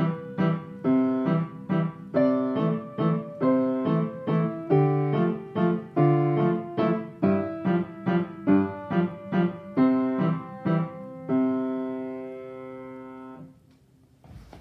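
Solo piano playing a waltz in a steady chordal pulse, closing on a final chord struck about 11 seconds in and held until it dies away.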